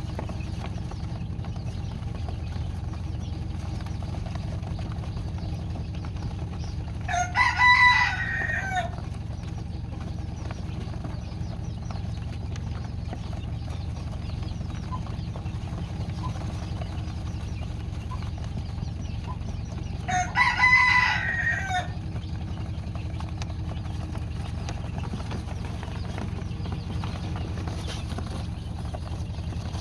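Rooster crowing twice, about thirteen seconds apart, each crow lasting about a second and a half and falling away at the end, over a steady low hum.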